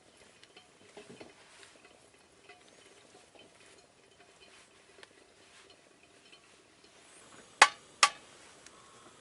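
Small, quiet clinks and taps of utensils against camp cookware, then two sharp, loud clicks about half a second apart near the end.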